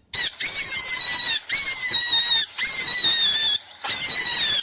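Rabbit squealing: a series of about four high-pitched, slightly falling squeals, each about a second long, with short gaps between them.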